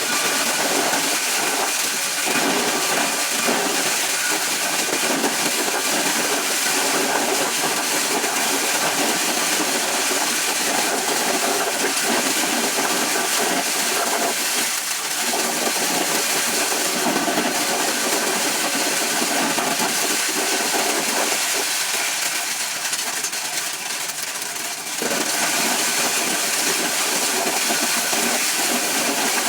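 Motor-driven corn shelling machine running steadily with a dense, hissing rattle. It eases off briefly for a few seconds near the end, then picks up again.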